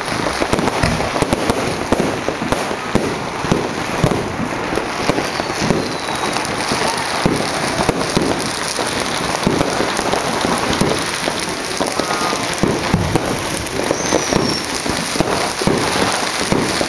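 Dense, continuous popping and banging of many fireworks and firecrackers going off at once, with a faint short whistle now and then.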